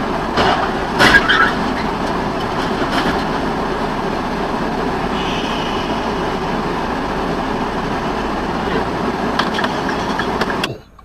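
Steady vehicle running noise, a dense rumble with hiss, broken by a few sharp knocks, the loudest about a second in. It cuts off suddenly near the end.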